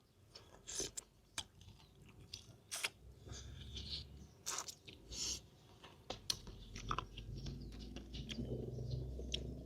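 Close mouth sounds of a person eating chicken with sticky rice: irregular wet smacks, clicks and chewing.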